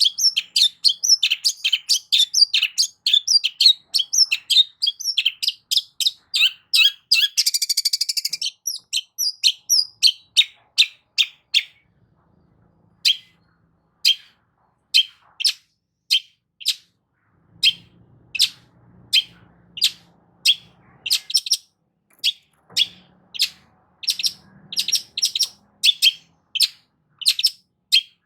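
Long-tailed shrike (cendet) singing: a fast run of high chattering notes, with a harsh buzzy burst about eight seconds in, then slower, evenly spaced single sharp notes from about twelve seconds on.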